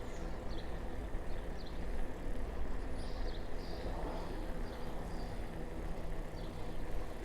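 Wind rumbling on the microphone of a moving bicycle rider, over a steady low hum. Small birds chirp faintly and sporadically.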